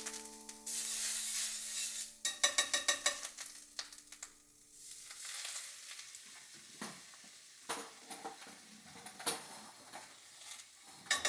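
Food sizzling in a pan while a utensil stirs and scrapes against it: a hiss in the first couple of seconds, a quick run of clicks about two seconds in, then a few scattered knocks.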